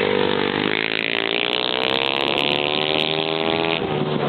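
Small minibike engine revving up, its pitch climbing steadily for a couple of seconds, then dropping off suddenly near the end.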